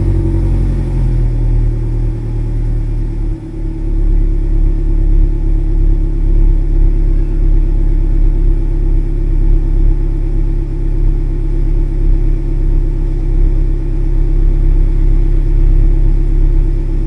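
Exhaust note of a Subaru VN5 Levorg's 1.8-litre turbo flat-four through an STI Performance muffler, idling steadily shortly after start-up with no throttle, with a brief dip in level about three seconds in.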